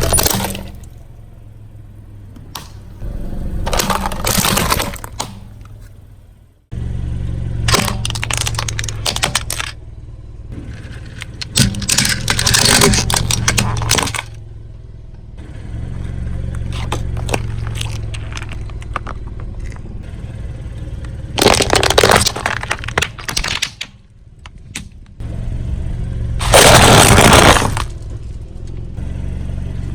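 A car's tyres rolling over and crushing objects, in about five loud bursts. Between the bursts the car's engine runs with a low rumble, and the rumble changes abruptly twice where clips are joined.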